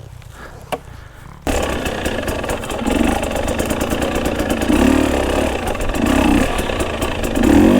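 Dirt bike engine, low and quiet for about a second and a half, then suddenly loud under throttle with repeated surges in revs as the bike is ridden over a rough trail obstacle.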